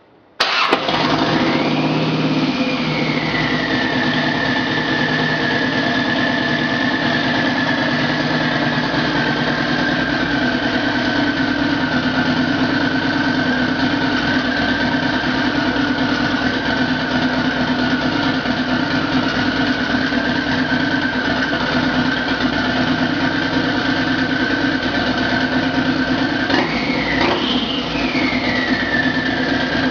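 Turbocharged engine idling with a steady high whine over the running, starting suddenly about half a second in. It is revved briefly twice near the end, the whine climbing and falling back each time.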